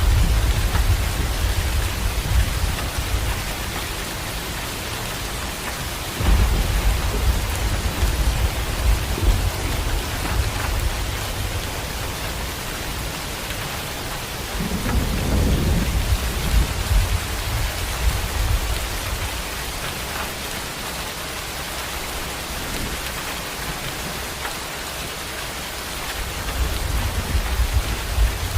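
Heavy rain pouring steadily, with low rolls of thunder: one at the start, another about six seconds in, the strongest about halfway through, and more building near the end.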